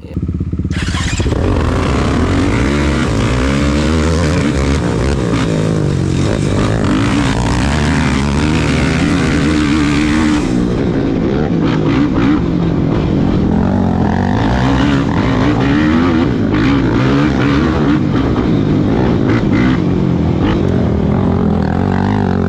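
Off-road racing engine running loud, its pitch rising and falling constantly as it revs up and down under way.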